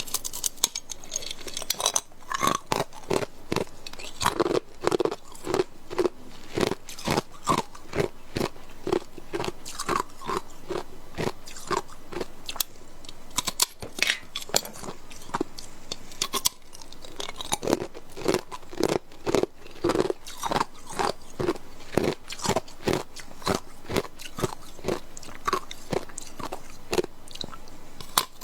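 Hard clear ice cubes being bitten and chewed close to the microphone: a steady run of sharp, hard crunches, about two a second.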